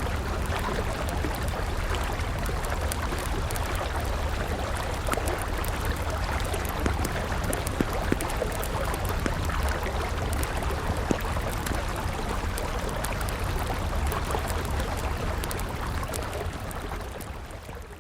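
River water flowing steadily, with a wood fire crackling over it: many small clicks and a few sharper pops. The sound fades out over the last couple of seconds.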